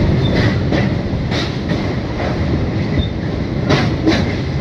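Train crossing a steel truss rail bridge, heard from on board: a loud steady rumble with wheels clacking over rail joints every second or so.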